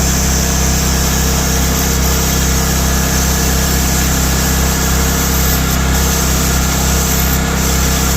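Coleman Powermate portable generator's small Kawasaki engine running steadily at a constant speed, powering a plugged-in light.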